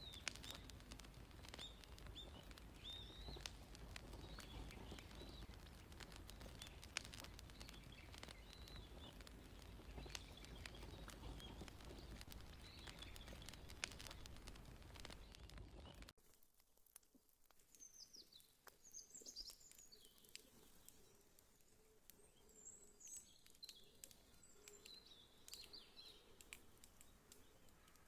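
Faint wood fire crackling with scattered sharp pops, while small birds chirp throughout. About halfway through the low background rumble cuts off abruptly, leaving quieter crackles and bird calls.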